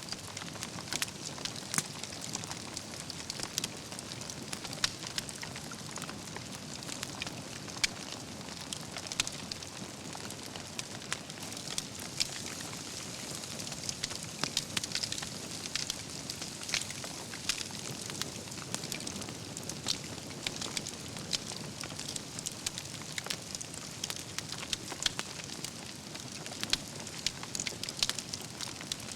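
Wood fire burning, its logs crackling with frequent sharp, irregular pops over a steady hiss of flame.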